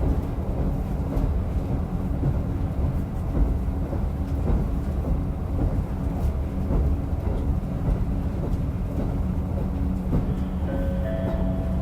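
Diesel railcar running along the line, heard from inside the car: a steady low engine and rolling rumble with faint scattered clicks from the wheels. Near the end a few short stepped tones sound over it.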